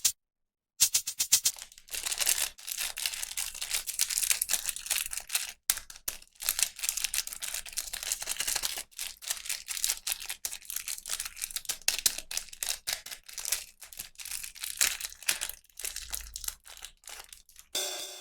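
Plastic toy packaging being crinkled and torn open by hand, an irregular run of crackles and rips.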